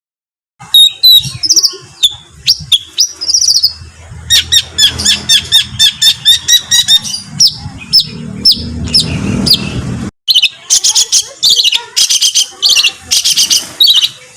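Songbird song made of loud, harsh, rapid 'tembakan' notes: sharp high calls, many sweeping quickly downward, repeated several times a second in fast runs. It starts after a short silence and breaks off briefly near the end before a fast run resumes.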